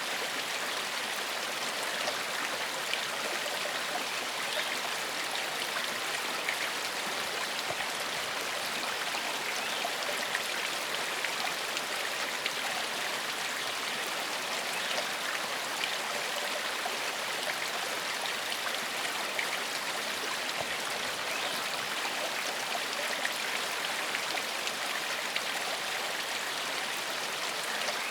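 Shallow forest stream flowing steadily over rocks, a continuous burbling rush of water with fine splashing detail.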